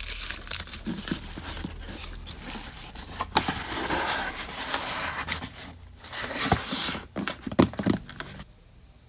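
Packaging materials crinkling and rustling as they are handled and wrapped, with frequent sharp taps and clicks; the handling stops about a second before the end.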